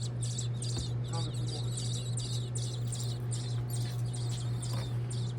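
Baby birds (nestlings) begging for food: shrill, high chirps repeated in quick clusters about two or three times a second, over a steady low hum.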